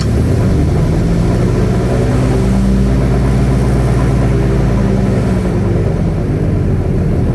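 An airboat's engine and propeller running loud as the boat gets under way. The engine note rises over the first couple of seconds, holds, and then drops as the throttle comes off near the end.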